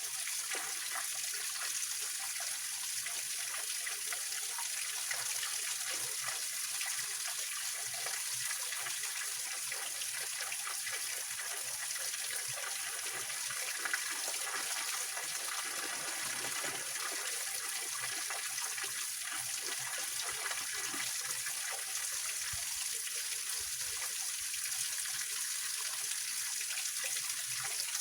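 Small mountain-stream waterfall splashing and trickling over rocks: a steady, bright rush of water with little deep rumble.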